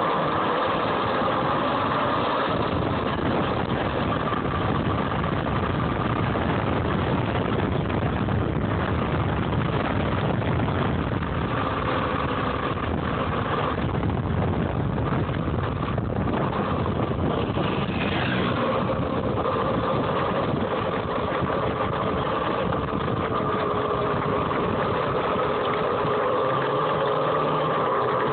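Home-built electric dirt bike's DC motor whining steadily over a low rumble as it rides, the whine's pitch dipping and rising a little with changes in speed.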